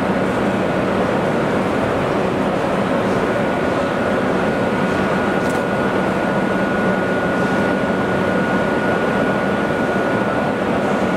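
A train running on the rails: a steady, unbroken rumble, with a thin high whine that sets in about two seconds in and holds.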